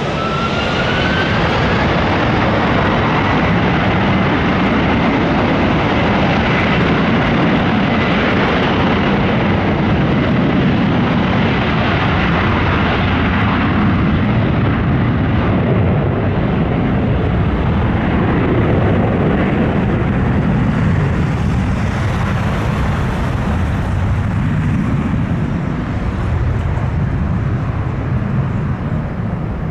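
Twin-engined Airbus A330-200's General Electric CF6-80E1 turbofans at takeoff power: a whine rising in pitch over the first couple of seconds, then loud, steady jet noise whose hiss fades over the second half as the jet moves away.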